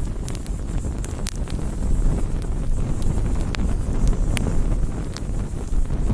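Wood campfire burning: a steady low rumble with sharp crackles and pops scattered through it, about one or two a second.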